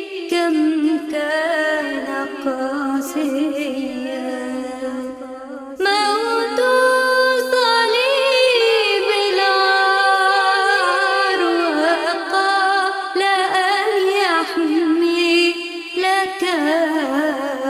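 A single voice sings a long, ornamented hymn melody, sliding between held notes with wide vibrato, with little or no bass beneath it. The line breaks off briefly about six seconds in, then resumes louder.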